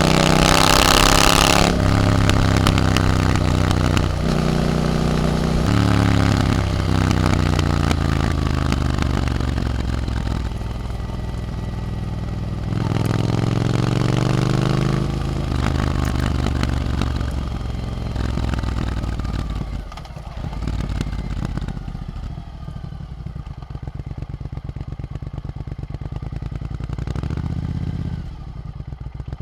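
Triumph Scrambler 900's parallel-twin engine through an Arrow exhaust, pulling hard and rising in pitch through several gear changes. Past the middle it is throttled back, running lower and quieter with uneven exhaust pulses as the bike slows.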